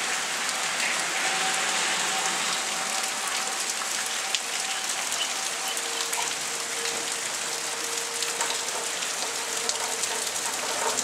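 Steady rain falling on pavement and parked cars. A faint steady tone sounds in the background and drops to a lower pitch about halfway through.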